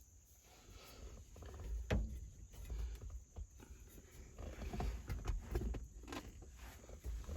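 Scattered clicks, knocks and rubbing of parts being handled and fitted by hand, with the sharpest click about two seconds in.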